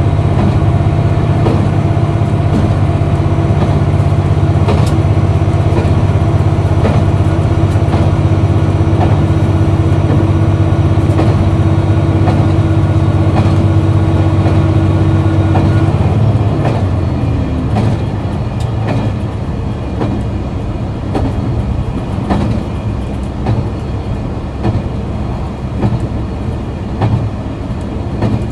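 KiHa 261 series diesel railcar's engine running hard under power, then easing off about halfway through and dropping to a lighter, quieter note. Sharp clicks from the wheels on the rails stand out more once the engine eases.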